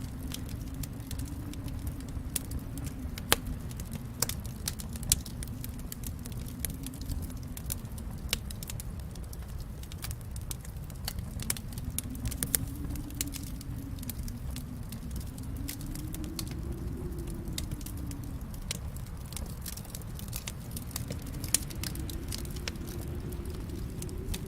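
Wood fire in a fireplace crackling: frequent sharp pops and snaps, a few louder ones, over a steady low rumble of burning.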